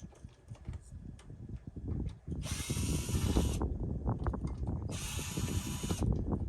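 Power drill driving in two bursts of about a second each, with clattering clicks around them, as it tries to back out a screw with a stripped head.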